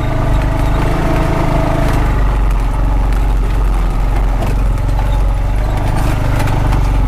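Honda Pioneer 520 side-by-side's engine running steadily as the machine drives along a rough trail, with a few faint knocks and rattles.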